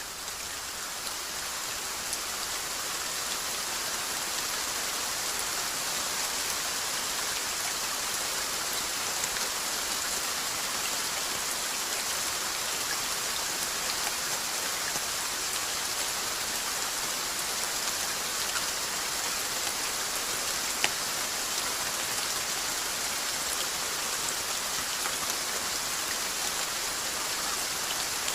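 Steady rain falling on a surface: an even hiss with scattered drop taps, swelling up over the first couple of seconds, with one sharper tap about three quarters of the way through.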